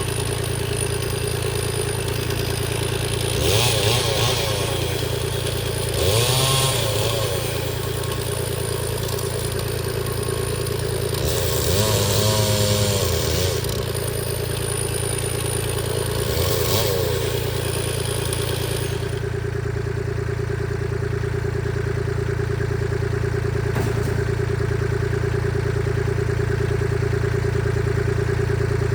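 Two-stroke Stihl chainsaw revving up in several surges, cutting firewood logs, over a steady engine drone. About two-thirds of the way through the surges stop and only the steady running is left.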